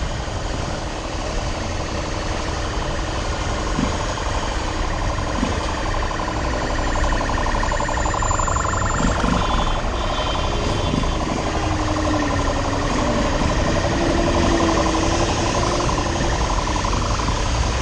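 Road noise while riding in traffic: a steady rush of wind and vehicle engines, with a tone that slowly rises and falls from about six seconds in until near the end.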